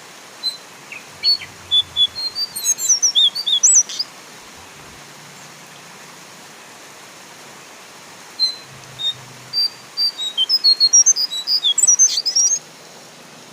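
Brown jongkangan bird calling in its "ngeplong" style: two bouts of quick, high whistled notes, each speeding up and growing louder before stopping. A steady hiss of rain runs underneath.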